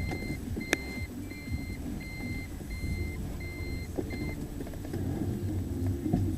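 A car's warning chime beeping about seven times at a steady pace of roughly one and a half a second, then stopping, over the low sound of the running engine inside the car. One sharp click about a second in.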